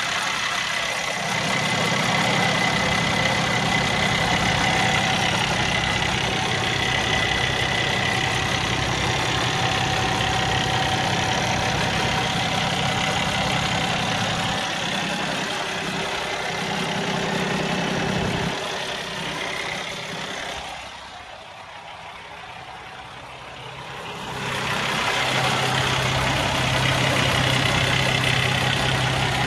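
Cummins ISX diesel engine of an emissions-deleted 2014 Freightliner Cascadia running steadily at idle. Past the middle it drops quieter and duller for a few seconds, then comes back at full level with a deeper steady hum.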